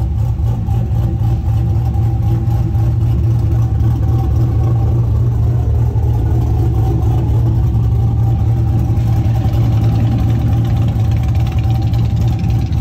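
A vehicle engine idling steadily, a constant low hum with no revving.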